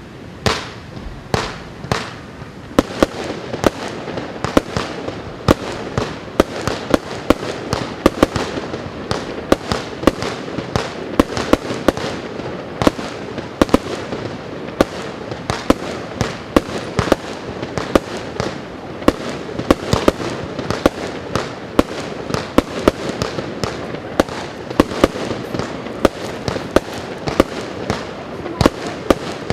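A 200-shot, 20 mm consumer firework cake firing: sharp launch cracks come slowly for the first few seconds, then pick up to several a second over a steady crackle of bursting shells.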